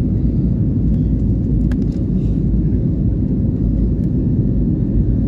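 Steady low rumble of a passenger plane landing, with a few faint clicks.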